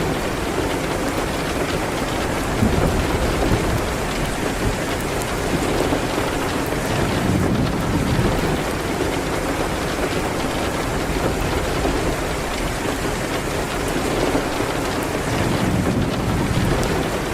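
Steady rain mixed with a crackling fireplace, with a low rumble underneath that swells now and then.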